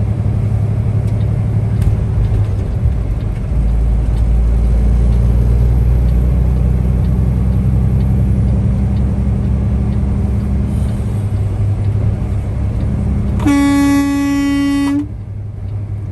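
Semi-truck diesel engine droning steadily on the road, its pitch shifting a few seconds in. Near the end a vehicle horn sounds one steady tone for about a second and a half, then stops sharply.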